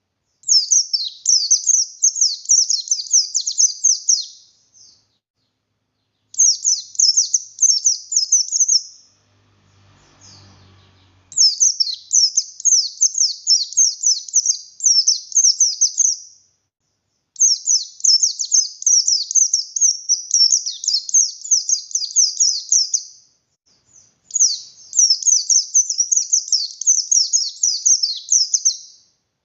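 Pleci buxtoni (white-eye) singing in bursts of rapid, high, chattering twitters, each about three to five seconds long with short pauses between. A faint low rumble comes in one of the gaps, about ten seconds in.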